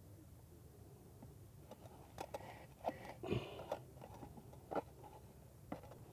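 A few light, scattered knocks and a brief scrape as a concrete honeycomb block and hand tools are handled during block laying.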